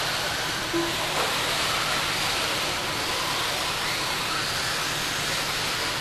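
Electric RC stadium trucks racing: a steady hiss with faint motor whines rising and falling, and a short beep about a second in.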